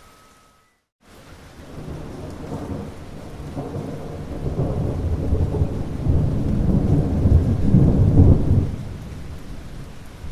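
Thunder rolling over steady rain: after a moment of silence, a low rumble swells for several seconds, peaks near the end, then dies away.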